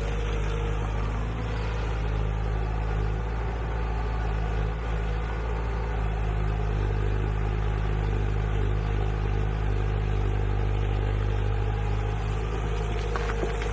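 A machine's engine running steadily at an even pitch, with a constant low hum.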